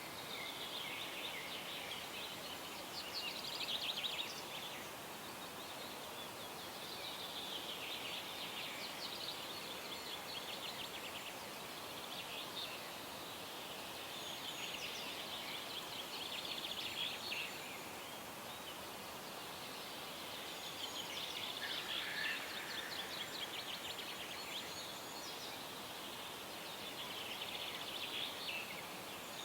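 Songbirds singing: trilled phrases a few seconds apart over a steady background hiss.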